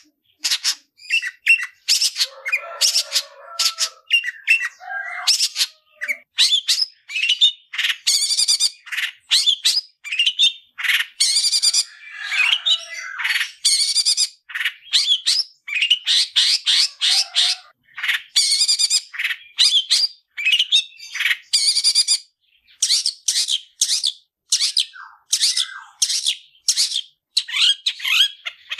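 Long-tailed shrikes (cendet) in full song, a dense run of quick, high, chattering calls with only short gaps: wild birds calling against each other in a territorial fight.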